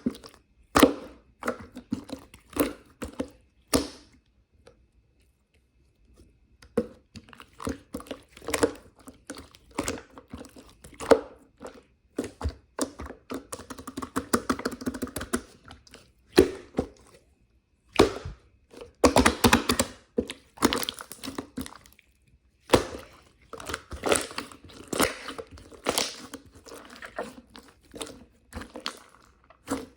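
Close-up crunching and crinkling, coming in irregular bursts of sharp clicks with short pauses between.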